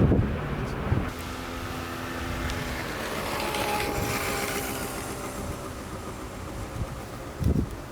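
Airbus A380's jet engines running with a steady whine of several held tones, with a sharp bump about a second in and another near the end.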